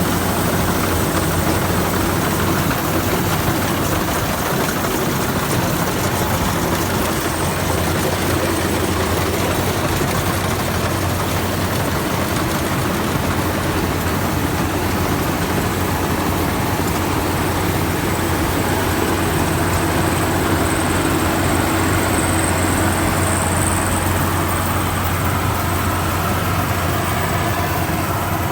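Rice combine harvester running steadily as it harvests, its engine droning at an even pitch over the rushing noise of its machinery.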